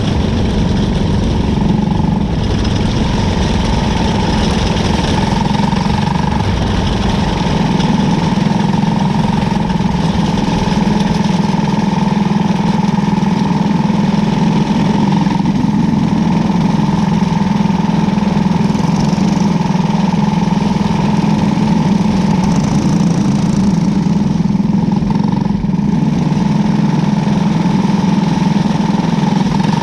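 Race car engine running at a steady, loud, unchanging pitch, heard from an onboard camera on the car.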